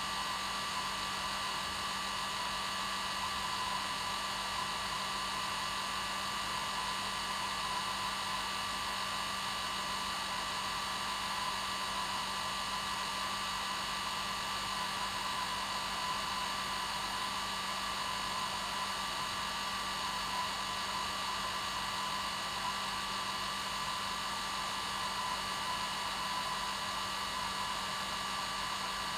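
Hair dryer running steadily, a constant rush of air with a steady whine, unchanging throughout.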